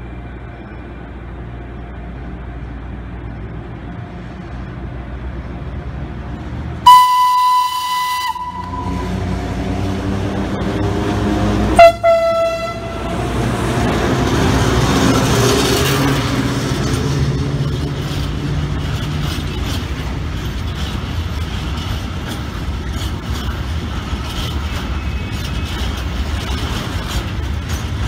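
A train approaching sounds its horn twice: a longer, higher blast about seven seconds in, then a short, lower blast about five seconds later. It then passes with a loud, steady running rumble.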